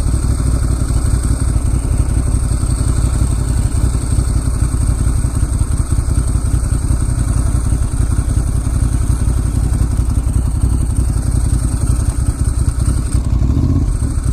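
Ducati Monster S2R1000's air-cooled L-twin engine running steadily at low speed.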